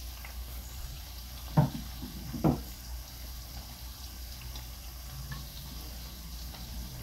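Watermelon rind sautéing in a pot, a steady sizzle. Two sharp knocks land about a second apart, roughly one and a half and two and a half seconds in.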